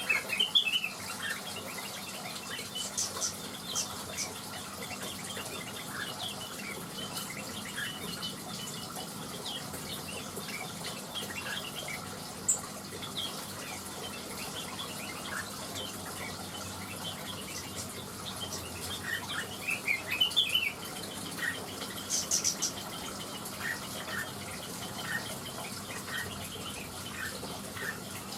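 Cucak wilis leafbirds chirping and twittering in an aviary: many short, quick notes scattered throughout, with a denser, louder flurry about two-thirds of the way through.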